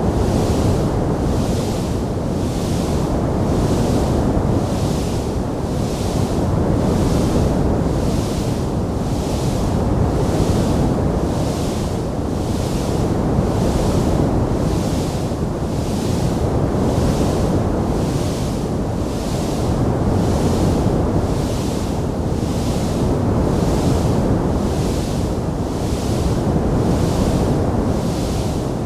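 Wood fire burning in a fireplace: a steady, dense rushing noise, with a high hiss that pulses evenly about one and a half times a second.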